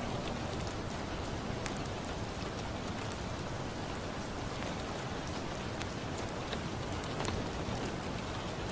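Steady rain falling, with occasional sharp pops and crackles from a wood fire in a fireplace.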